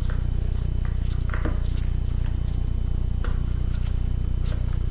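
Steady low electrical hum, with a few faint clicks and taps from small hand tools working on the screws of a laptop's case.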